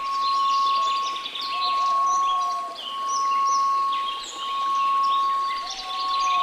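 A steady 1098 Hz test tone over a hiss of white noise, swelling and dipping in loudness about every second and a half, with birds chirping throughout.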